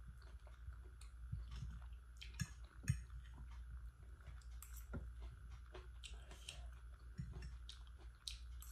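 Close mouth sounds of someone chewing pan-fried octopus and squid: soft, irregular wet clicks and smacks. Two sharper clicks stand out about two and a half and three seconds in.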